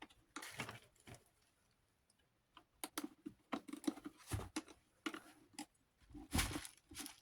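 Scattered clicks and light knocks of small fan parts being handled and worked by hand. There is a quiet gap about a second and a half in, and the clicking comes more often after that.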